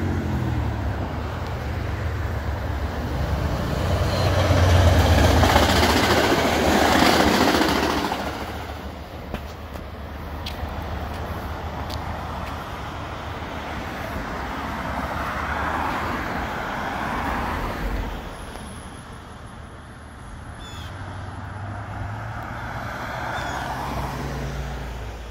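A passenger train running along the tracks, mixed with cars and trucks passing on the road beside them. The loudest pass swells up about four to eight seconds in and fades, and smaller swells follow later.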